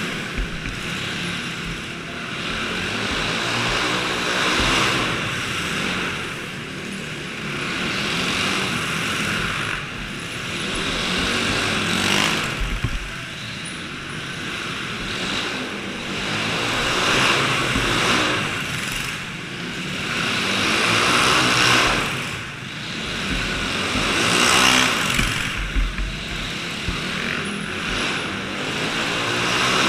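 Small dirt bike and go-kart engines running and revving, swelling louder and fading every few seconds as the machines come and go.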